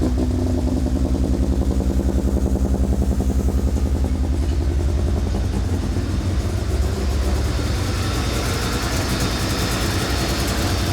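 Nissan SR20 inline-four engine, swapped into a Datsun 1600, running steadily on its first start after the build, with a fast even pulsing exhaust note. From about seven seconds in a hiss grows beneath it.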